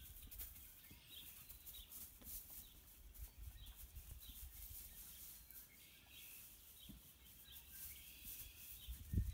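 Faint ambience: small birds give short high chirps about once a second over a low, steady rumble.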